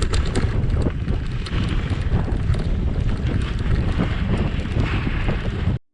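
Wind buffeting the microphone during a trail ride, with tyres rumbling over a rocky dirt trail and small rattles and knocks from the bike. The sound cuts off suddenly near the end.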